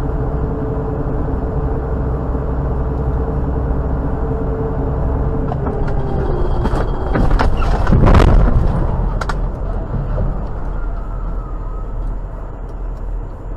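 Car engine and road noise running steadily, then a collision about seven seconds in: a few sharp knocks and a loud crunch near the eighth second, with the vehicle noise carrying on afterwards.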